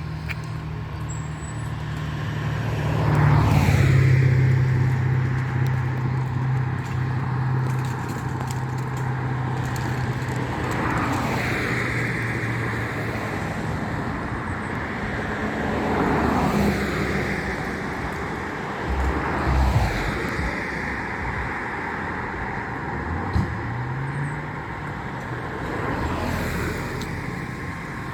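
Road traffic: a large engine running steadily for the first dozen seconds, and several vehicles passing by one after another, each with a falling whoosh.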